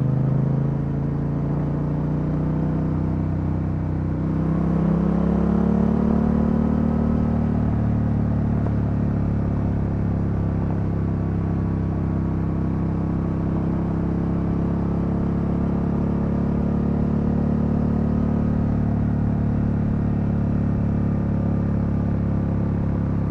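Yamaha Ténéré 700's parallel-twin engine through an Akrapovic exhaust, running under way; its pitch climbs about four seconds in as it pulls up, then holds steady while cruising.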